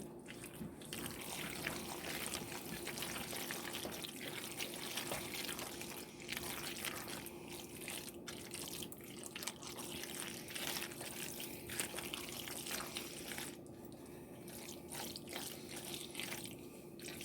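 Macaroni and cheese sauce heating in a pan on the stove, giving soft, irregular wet crackles and ticks over a steady low hum.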